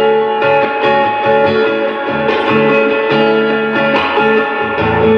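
Live music: guitar playing chords in a steady, repeating strum pattern in an instrumental gap between sung lines of a song.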